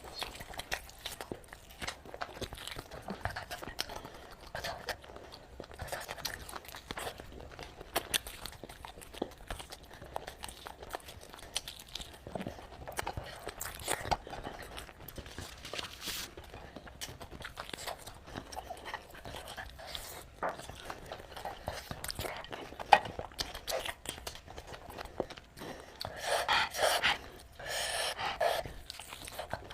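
A person eating close to the microphone: steady chewing with frequent short crunches and mouth clicks, and a brief vocal sound near the end.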